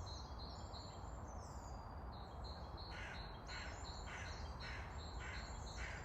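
Birds calling over a steady low background noise. High, quick chirps repeat throughout. About halfway in, a run of harsher calls joins them, roughly one every half second, tagged as crow cawing.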